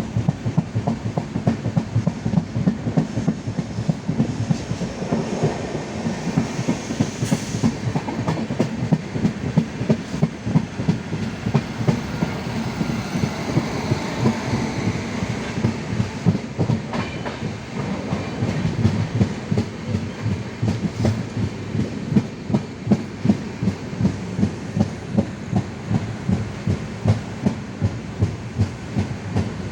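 Indian Railways passenger train running along the track: a steady rumble with the wheels clacking over rail joints in a regular clickety-clack.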